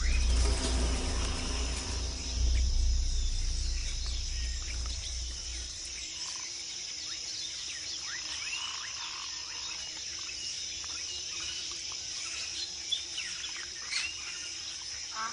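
Rainforest ambience: a steady high chorus of insects, with birds chirping now and then. A deep low rumble fills the first six seconds and then fades out.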